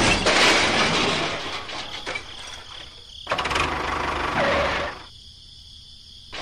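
Tractor engine running, starting suddenly about three seconds in and cutting off after about a second and a half. Before it, the clatter of a crash fades out.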